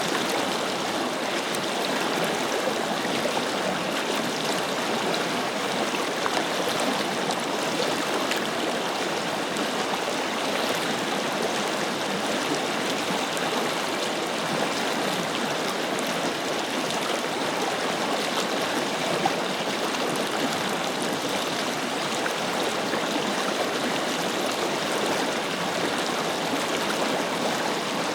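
Forest river flowing steadily over stones, an even rushing and babbling of water.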